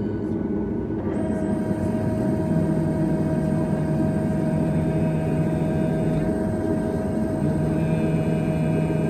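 Cabin noise of a Boeing 737 MAX jet airliner on the ground: a steady low rumble with a whine of steady tones that comes in about a second in and holds, joined by a low hum a little later.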